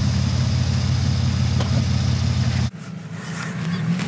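Car engine idling with a steady hiss over it; about three seconds in it drops away suddenly to a quieter hum.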